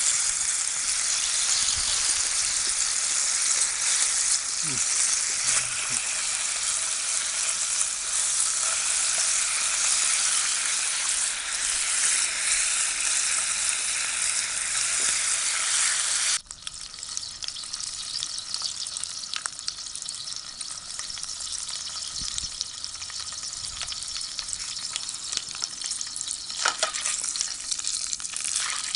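Food sizzling in hot oil, a steady hiss. About sixteen seconds in it drops suddenly to a quieter sizzle with scattered pops.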